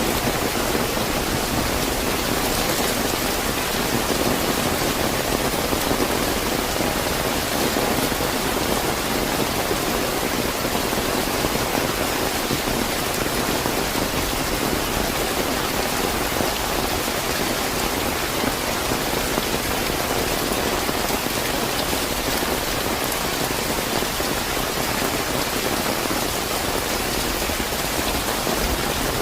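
Slightly heavy rain falling steadily, an even hiss of rain on surfaces.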